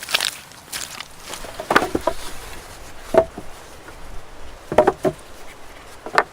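Wood being chopped: sharp tool strikes on wood at irregular intervals, about six of them, the loudest a little after three seconds.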